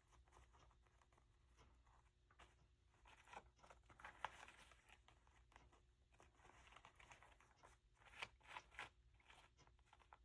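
Faint rustling and crinkling of paper and lace being handled and pressed into place, with a few louder crinkles about four seconds in and again around eight to nine seconds.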